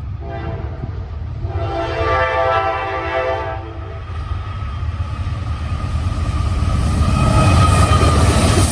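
Norfolk Southern diesel locomotive horn sounding a short note, then one long chord of about two seconds. After it, the deep rumble of the four-engine train grows louder as it comes closer.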